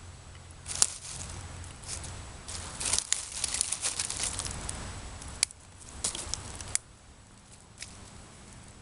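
Sticks and kindling being handled for a fire: rustling, crinkling and tearing, with sharp snaps, the loudest a little under a second in and two more in the second half.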